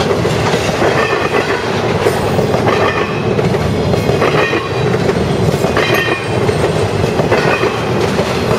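Intermodal freight train of truck trailers on flatcars rolling past: steady wheel-on-rail noise with short high-pitched wheel squeals every second or two.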